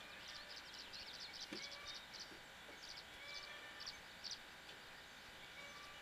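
Faint outdoor ambience with clusters of quick, high bird chirps through the first four seconds or so, a few short thin whistles, and a soft knock about a second and a half in.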